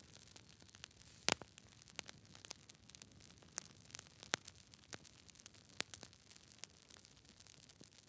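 Wood fire crackling: irregular sharp pops and snaps over a low, steady hiss, with the loudest pop about a second in.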